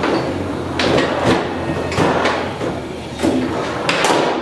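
Foosball table in fast play: the ball struck by the players' figures and knocking against the table, with the rods sliding, in about half a dozen sharp, irregular clacks.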